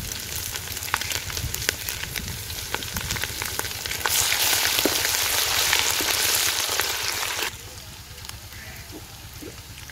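Sliced onions with ginger and garlic paste frying in hot oil in an aluminium karahi, sizzling and crackling. About four seconds in the sizzle grows much louder as a wooden spatula stirs the mix, then drops suddenly to a quieter crackle.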